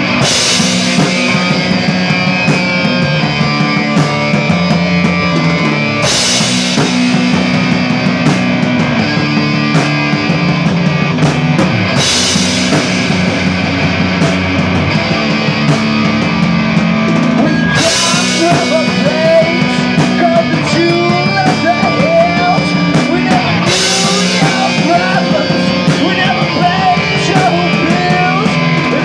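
Rock music with drum kit and guitar, a crash cymbal marking each phrase about every six seconds; about two-thirds of the way through, a bending lead melody comes in over the chords.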